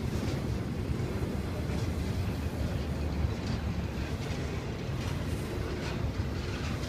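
Intermodal freight cars rolling slowly past on the rails: a steady low rumble of steel wheels on track, with a few faint clicks and clanks spread through it.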